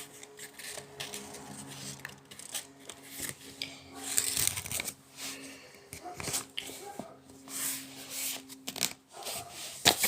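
A sheet of A4 paper being handled and folded in half, rustling and crackling irregularly, with louder crinkles about four seconds in and near the end.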